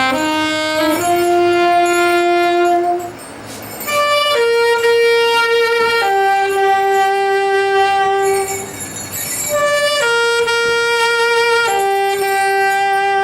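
A band of wind instruments playing long, held chords in phrases a few seconds long, with short breaks about three and nine seconds in.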